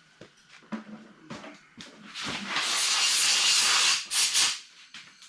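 Compressed air hissing from a blow gun in one long blast of about two seconds, then two short bursts, blowing debris out of a lawnmower's air filter housing. A few light knocks come before the air.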